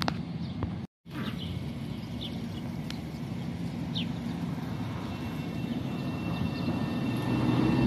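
Low rumble of an LIRR M7 electric train standing at the station beside the crossing, building toward the end, with a few short bird chirps over it. The sound cuts out briefly about a second in.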